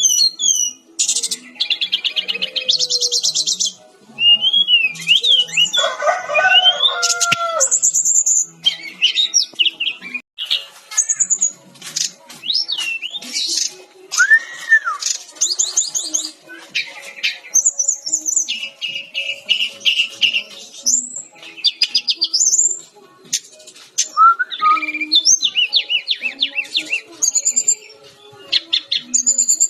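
Brown-chested jungle flycatcher (SRDC) singing a long, varied song of rapid trills, rising and falling whistled glides and quickly repeated notes, with short breaks between phrases.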